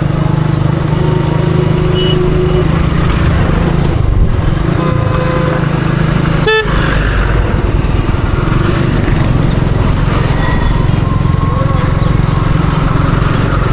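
Motorcycle engine running steadily while riding in street traffic, with a few short horn toots from other vehicles and a single sharp knock about halfway through.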